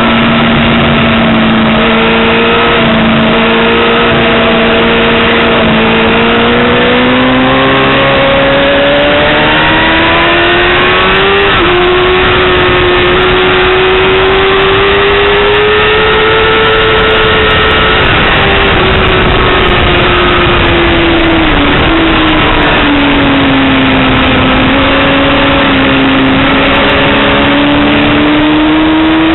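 Yamaha R6 sportbike's 600 cc inline-four engine running hard on track under a constant rush of wind noise. Its pitch climbs slowly through the first third, steps near the middle, then falls away and climbs again near the end as the rider gets on and off the throttle.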